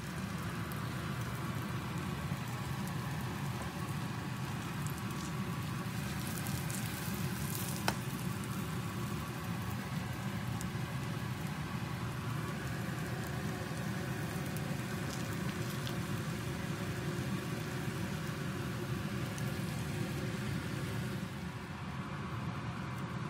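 Egg-battered flounder pancakes sizzling in oil in a frying pan, with one sharp click about eight seconds in. The sizzle eases slightly near the end.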